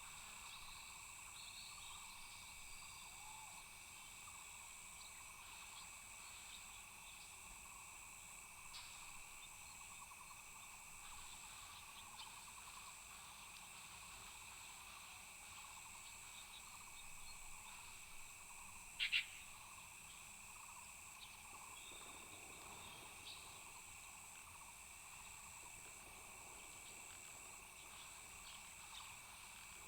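Faint, steady high-pitched insect chorus, several tones droning together, with scattered short chirps. A single brief, louder call stands out about two-thirds of the way in.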